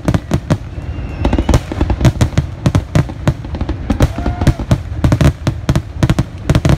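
Fireworks grand finale: a rapid, unbroken barrage of aerial shell bursts, several loud bangs a second.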